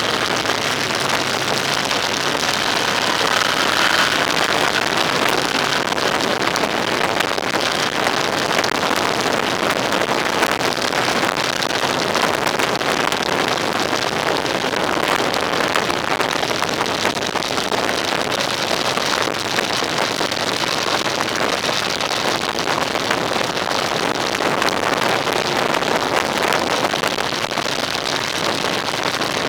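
Steady rushing wind and road noise from a vehicle on the move, with no clear engine note.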